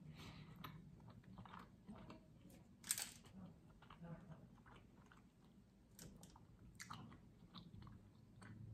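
A person chewing food close to the microphone, with soft wet smacks and the occasional crunch of raw cucumber.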